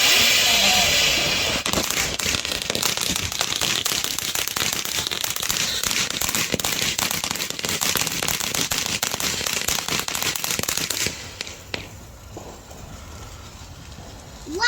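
A firework hissing, then about a second and a half in breaking into dense, rapid crackling that goes on for about nine seconds and stops fairly suddenly, leaving only a quiet background.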